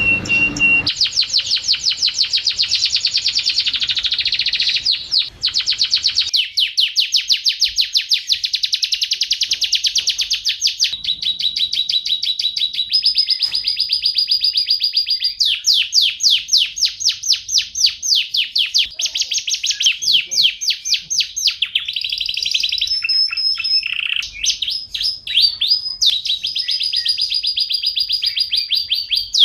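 Domestic canary singing a long, unbroken song of rapid trills and fast repeated notes, several per second, broken by a few short held whistled tones.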